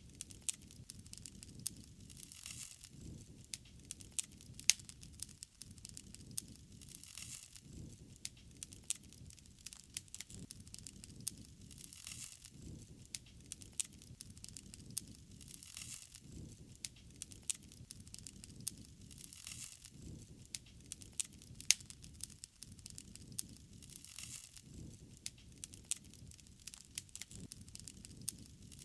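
Campfire crackling, with irregular sharp pops over a low steady rush, a few pops much louder than the rest.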